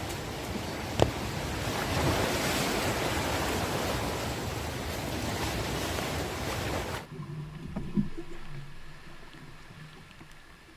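Heavy rain falling in a steady rush, with a sharp knock about a second in. The rain sound cuts off suddenly about seven seconds in, leaving a much quieter background with a single thump soon after.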